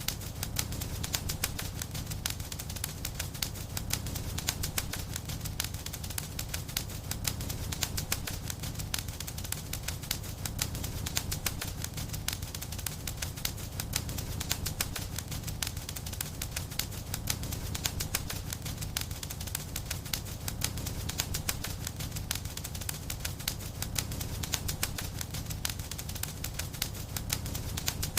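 Wood fire in a fireplace crackling continuously, with many small sharp pops over a steady low sound of the burning.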